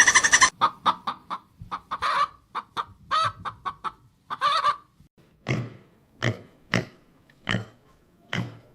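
Chickens clucking: a string of short separate calls, some bending up and down in pitch. In the second half they come at a fairly even pace.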